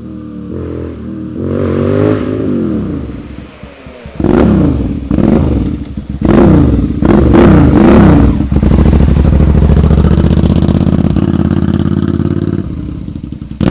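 650 cc naked motorcycle engine revving up and dropping back several times, then holding a steady high engine speed for about four seconds before easing off.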